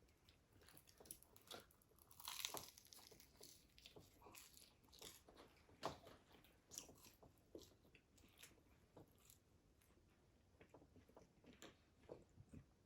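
Close-up chewing and crunching of crispy fried food: a run of small crackles and clicks, with a louder crunch about two and a half seconds in and another around six seconds.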